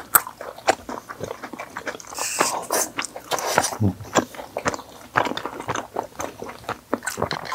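Close-miked eating sounds: biting and chewing mouthfuls of sauced boneless fried chicken, a dense run of short wet clicks and smacks.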